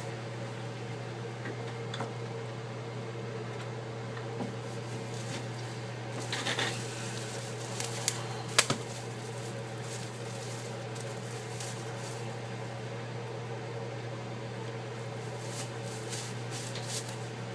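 A steady low electrical hum with a few light clicks and brief rustles from small parts being handled, the sharpest two clicks a little past the middle.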